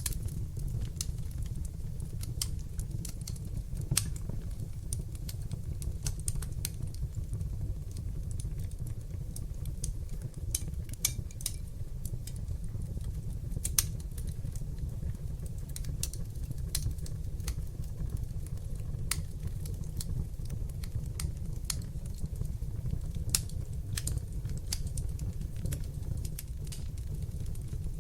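Wood fire burning in a fireplace: a steady low rumble of flames with irregular crackles and sharp pops from the burning logs, a few pops louder than the rest.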